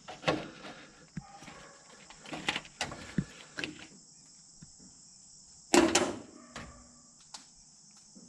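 Scattered knocks and clanks of metal tools and parts being handled during water pump removal, the loudest about six seconds in, over steady chirping of crickets.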